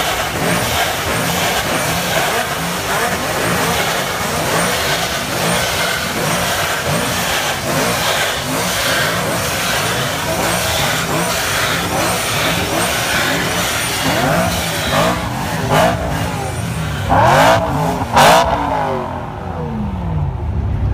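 Several G-Power supercharged BMW M3 V8 engines revving again and again, their rising and falling revs overlapping. Toward the end come a few louder revs with sharp exhaust cracks, and then the revving dies down.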